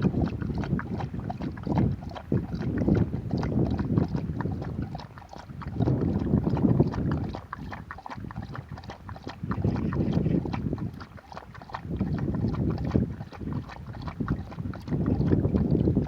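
Sea waves washing ashore in surges every few seconds, with many small clicks and rattles through them and wind on the microphone.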